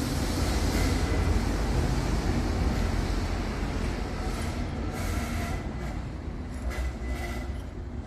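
Steady low rumbling noise with a few light clicks about five and seven seconds in.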